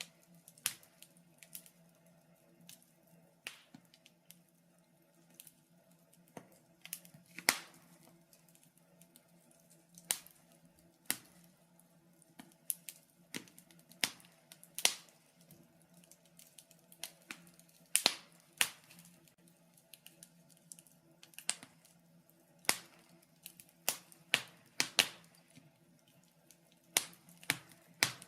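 Wood fire in a fireplace crackling, with irregular sharp pops and snaps of burning logs, some louder than others, over a faint steady low hum.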